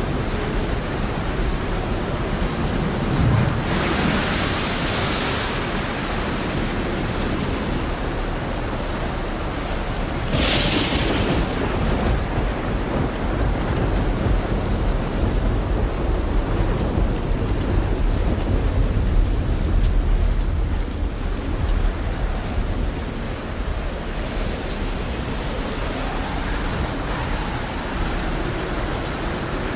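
Steady rain falling during a thunderstorm, with a long low rumble of thunder building about halfway through and loudest about two-thirds of the way in. Two brief hissing surges of rain stand out near the start.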